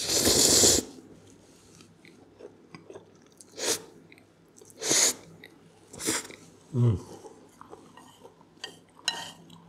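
A person eating a mouthful of stir-fried rice noodles: a loud breathy sound at the start, then chewing with a handful of short, separate mouth noises.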